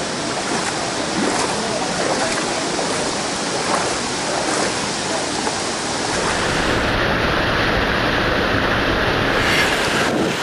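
Deer Creek Falls, a waterfall, pouring in a steady rush of water. About six seconds in it grows a little louder and deeper.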